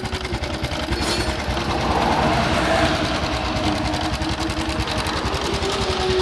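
Honda Supra X 125's single-cylinder four-stroke engine running with a steady, rough, rapid clatter from the front of the engine, a noise the mechanic likens to the cam chain ("kamrat").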